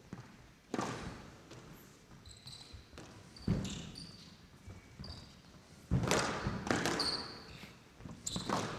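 Squash rally: the ball struck by rackets and smacking off the court walls in sharp hits at irregular intervals, about six of them, with short squeaks from players' shoes on the court floor in between.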